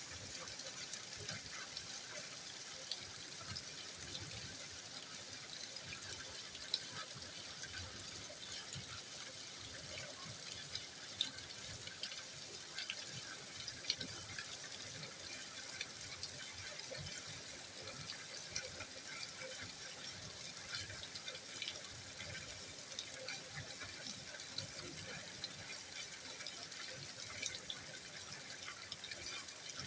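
Steady rain falling, a continuous hiss with many small drop ticks and a few louder single drops.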